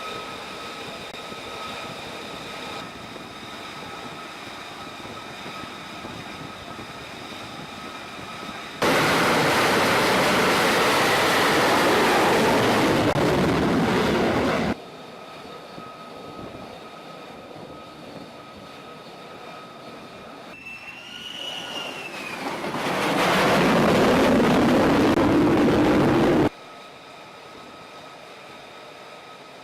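F-35C Lightning II jet engine noise on a carrier flight deck, in edited shots that cut abruptly: a steady engine whine with high whistling tones, broken by two stretches of loud full-power jet blast lasting several seconds each. Between the two blasts a high whine slides downward.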